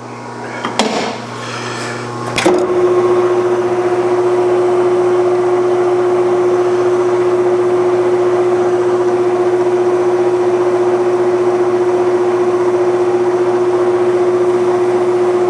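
Clausing Colchester metal lathe running, a couple of knocks in the first few seconds and then a steady, loud hum with a constant tone from about two and a half seconds in.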